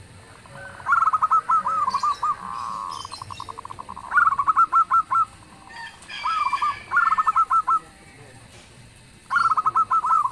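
Zebra dove (perkutut) cooing. It gives about five loud phrases of quick, staccato coo notes, with a fainter rapid trill of notes after the first phrase.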